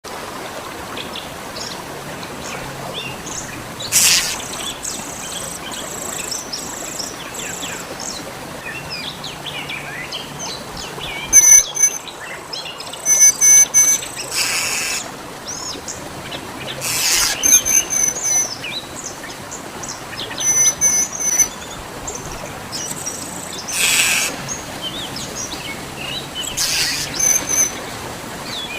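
Small birds chirping at a nest where a parent is feeding its chicks: short high chirps and cheeps in clusters, loudest about halfway through, with a few brief rushing noises in between.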